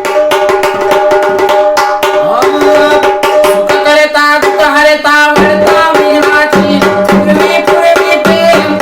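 Sambal, the pair of stick-beaten folk drums, played in quick continuous strokes under a sustained melody.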